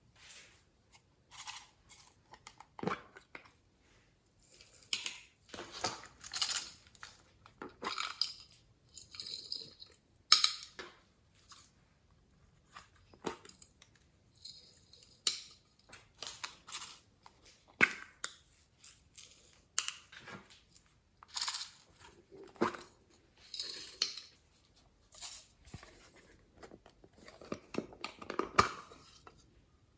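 Slime being squished, stretched and mixed by hand, giving irregular bursts of sticky popping and crackling with a few sharper snaps.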